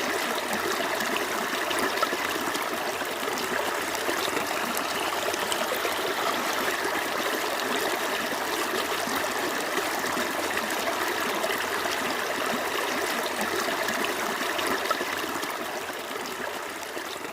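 Small creek flowing steadily, a continuous rush and babble of running water; it begins to fade out near the end.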